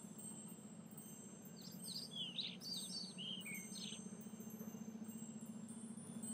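Faint cartoon birdsong: a quick run of small chirps and tweets about two seconds in, over a steady low hum.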